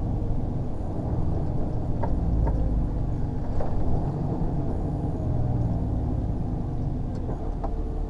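Heavy lorry's engine rumbling steadily at idle, with a few faint light clicks over it.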